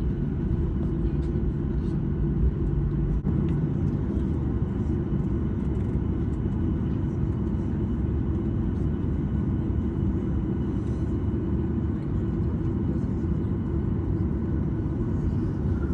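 Jet airliner cabin noise heard from inside the cabin: a steady, even rumble of the engines and airflow with a few faint steady tones above it.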